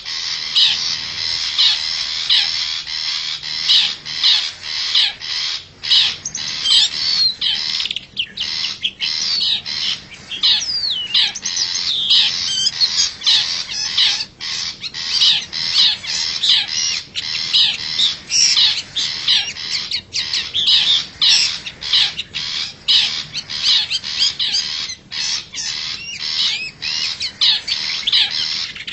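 Long-tailed shrike (cendet) lure call: repeated harsh calls, two or three a second, without a break.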